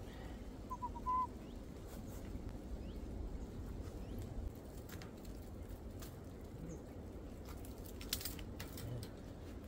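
A short bird call about a second in, three quick notes and a longer one, over steady low outdoor rumble. A few sharp clicks near the end as pliers work on the wire snare holding a fox.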